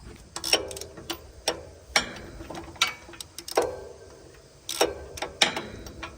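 Metal hand tools clinking and clanking on metal: a dozen or so sharp, irregular knocks, each with a short metallic ring.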